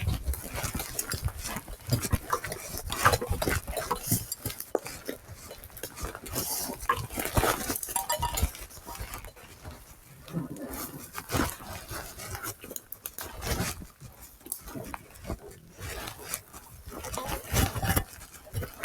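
Irregular crunching and rustling, like footsteps through dry leaves and brush, with knocks and scrapes of the recorder being carried.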